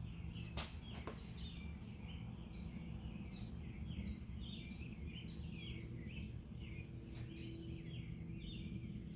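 Birds chirping over and over in the background, with a few sharp clicks near the start and one about seven seconds in, over a low steady hum.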